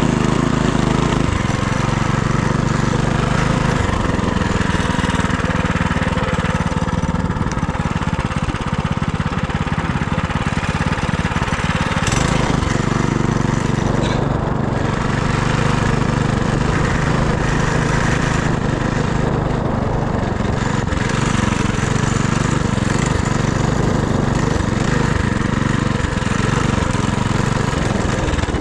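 Single-cylinder engine of an FRP GMB100 minibike running steadily while riding, its pitch shifting with the throttle a few times.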